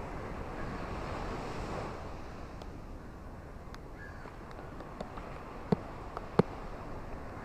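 Ocean surf washing on a beach under a steady hiss of rain, swelling a little in the first couple of seconds. A few sharp ticks stand out in the second half, the loudest about two-thirds of the way through.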